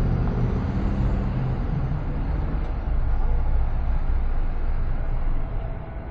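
Car driving on city streets: a steady low rumble of road and engine noise. A humming tone fades out in the first couple of seconds, and the rumble grows louder in the middle before easing near the end.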